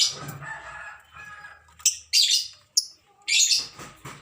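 Lovebirds chirping: a series of short, shrill, high-pitched calls, about half a dozen across the few seconds.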